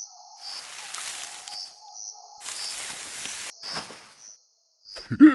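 Outdoor ambience with insects chirping in a steady high pulse about twice a second, broken by three rushes of hissing noise.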